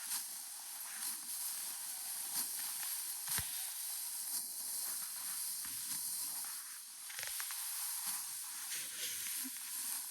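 Dry rice stalks rustling and crunching as they are gathered and cut with a hand sickle, with irregular crisp snaps of the blade through the straw.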